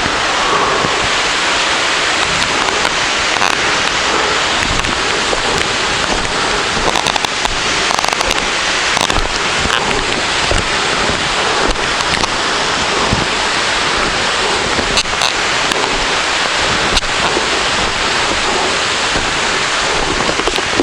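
A waterfall pouring, a loud steady rush of falling water.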